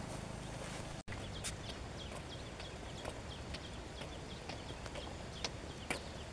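Outdoor ambience: a steady low hum that cuts off abruptly about a second in, then many short high chirps and a few sharp clicks over a low background.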